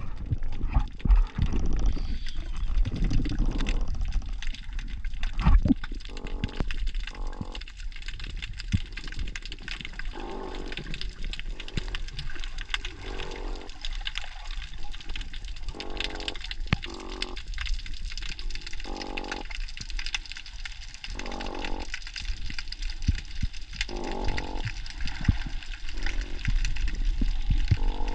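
A series of short underwater croaks, each a brief buzzing rasp, repeating irregularly every second or few. Their source is unidentified; the divers' best guess is spiny lobsters croaking like crickets at night. Under them runs a steady crackle of small clicks and a low rush of water.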